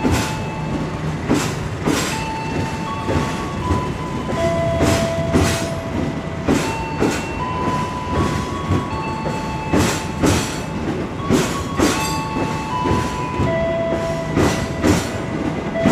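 Stainless-steel electric commuter train running past close by, its wheels clacking over the rail joints again and again over a steady rumble, with steady whining tones that shift up and down in pitch.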